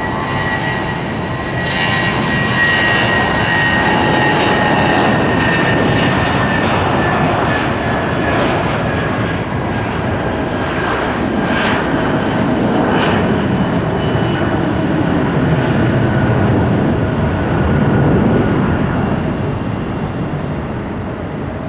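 Jet airliner's engines running at high power as it passes: a loud, steady rush with a high whine that slowly falls in pitch, swelling a couple of seconds in and easing near the end.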